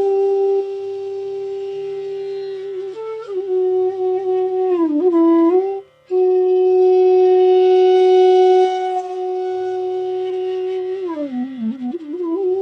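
Bansuri, the North Indian bamboo flute, playing a slow raga melody: long held notes joined by downward slides and ornamented turns, with a short break for breath about halfway through. A quiet low drone sounds underneath.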